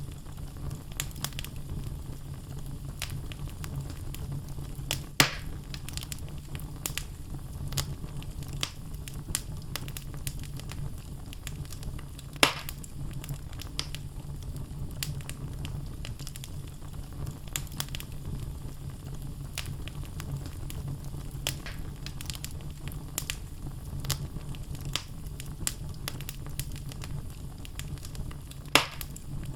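Wood fire burning in a fireplace: a steady low rumble with frequent small crackles of the burning logs and three louder pops, about five, twelve and twenty-nine seconds in.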